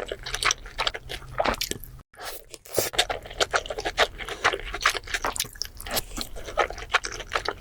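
Close-miked eating of seafood: dense, irregular crunching and chewing with many sharp crackles, broken by a moment of silence about two seconds in.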